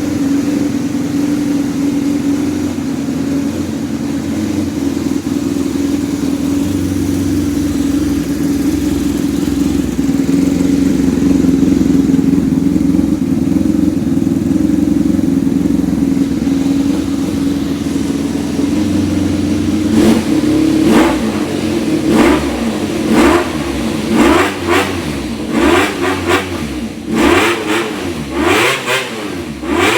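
Honda VF400F's 400 cc V4 engine through a 4-2-1 exhaust with a straight pipe, running at a steady idle, then from about two-thirds of the way through blipped in quick, sharp throttle revs about once a second.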